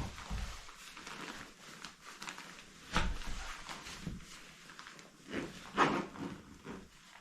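Scattered knocks and clunks, the loudest about three seconds in and just before six seconds, over a faint steady hiss.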